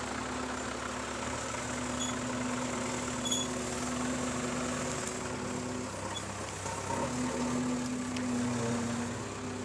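Diesel engine of heavy machinery running steadily at a low, even hum; its note drops away briefly about six seconds in and comes back a second later.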